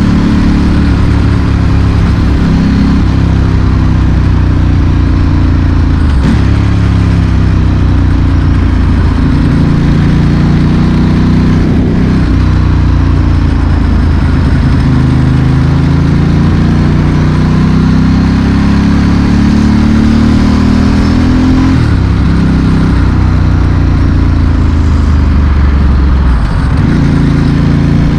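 Ducati Monster S4R's 90-degree L-twin running loud through a straight exhaust while riding in traffic. Its pitch climbs and falls through gear changes, with a long rise in the middle and a brief dip near the end.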